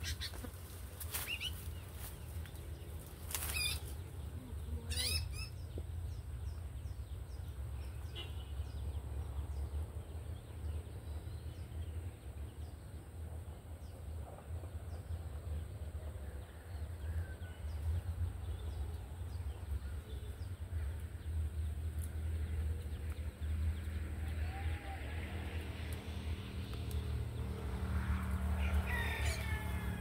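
Small birds chirping in a few short high calls, with more calling near the end, over a steady low rumble.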